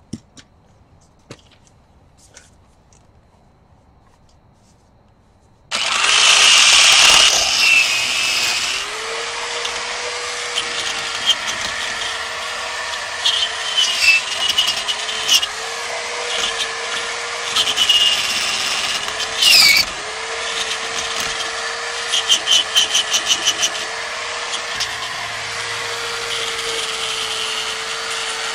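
A few light clicks, then about six seconds in a power drill starts and runs on. Its motor pitch dips and recovers as it is pressed against the work, with bursts of harsh scraping, as when a rotary brush grinds rust off steel brake parts.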